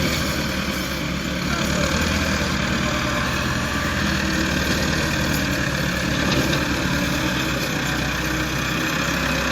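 Massey Ferguson 385 tractor's four-cylinder diesel engine running steadily.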